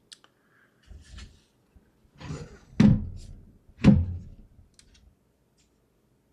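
A light click and some rustling, then two solid thuds about a second apart as the small PC case and its parts are handled and set down on the bench.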